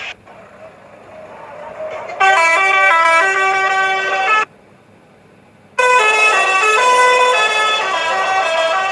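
A vehicle's multi-tone musical horn playing a short stepped tune, loud, in two bursts that start and cut off suddenly: the first about two seconds in, the second about six seconds in.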